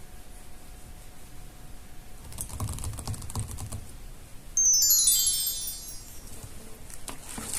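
Quick light clicks and crinkles of paper being handled and tapped. About halfway through comes a bright chime-like sound effect that steps down in pitch over about a second and a half, the loudest part.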